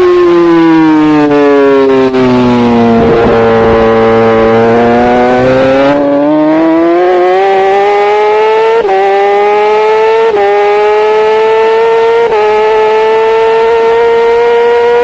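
Racing superbike engine heard from an on-bike camera: revs fall as the rider slows into a corner, hold low through it, then climb hard on the exit with three quick gear changes.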